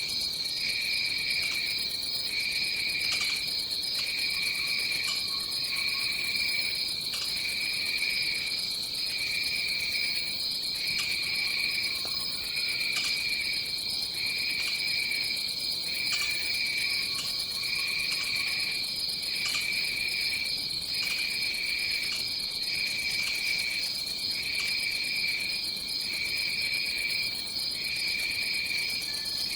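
Rainforest insect chorus: one high, steady trill with a second, lower insect call pulsing about once a second. Faint low hoots come through three times.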